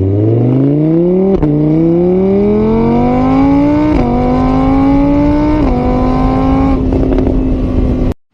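A vehicle engine accelerating: its pitch climbs, drops at each of three gear changes, then holds steady before cutting off abruptly near the end.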